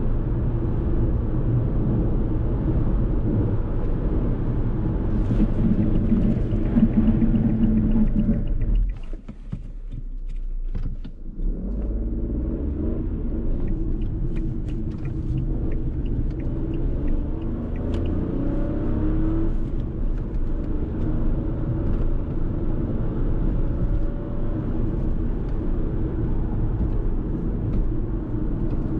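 Fiat Tipo's 1.0-litre turbocharged three-cylinder petrol engine running as the car drives, with road and tyre noise. About nine seconds in, the sound drops away for roughly two seconds, then picks up again.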